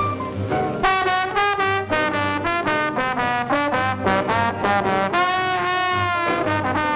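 Swing-band trombone solo: a run of short, quick notes, then one long held note with vibrato, over a bass line.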